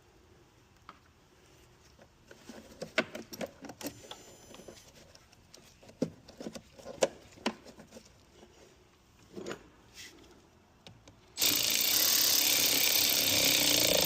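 Light clicks and knocks of hands and tools working the battery's negative terminal clamp, then, about eleven seconds in, a small cordless power tool runs steadily and loudly for about three seconds, spinning down the terminal's 10 mm nut.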